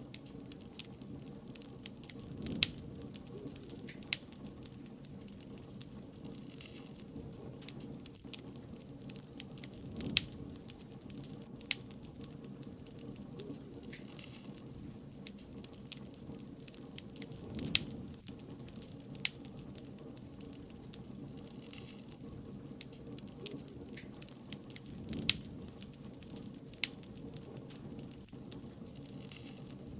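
Bonfire crackling: irregular sharp pops and snaps of burning wood over a steady low hiss, now and then swelling softly.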